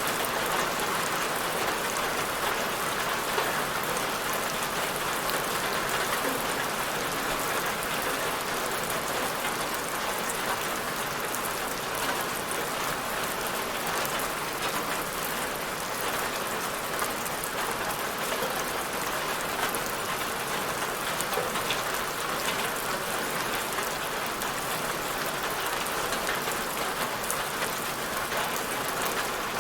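Steady rain falling on a surface, an even hiss with fine scattered drop patters.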